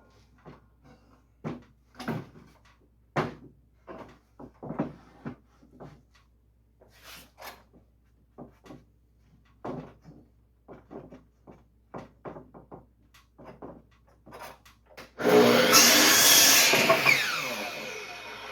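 Wooden boards being handled, knocking and clattering against each other for several seconds. Then a power tool starts suddenly about fifteen seconds in, runs loud for about two seconds, and winds down.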